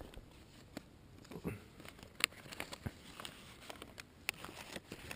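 Faint scattered clicks and crinkling rustles of something being handled close to the microphone, with no steady sound beneath them.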